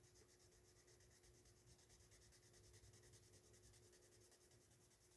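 Faint scratching of a colored pencil shading on coloring-book paper in quick, even back-and-forth strokes.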